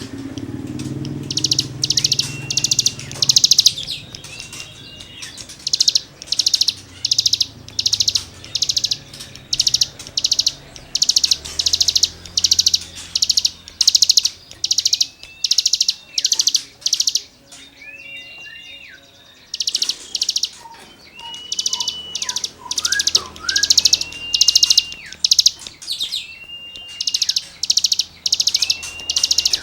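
Cigun songbird singing continuously in short, rapid, buzzy rasping phrases high in pitch. Clear whistled notes that rise and then drop off are mixed in, and the song pauses briefly around two thirds of the way through.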